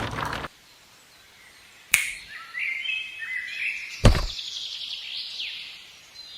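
Birds chirping, with two sharp knocks, one about two seconds in and another about four seconds in. A noisy clatter cuts off suddenly half a second in.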